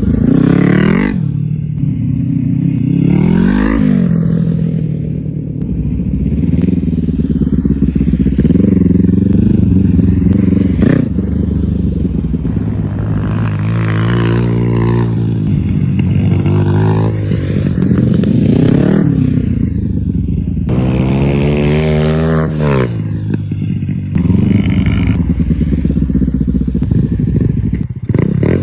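Motorcycle engine being ridden hard off-road, its pitch rising and falling again and again as it revs up and eases off.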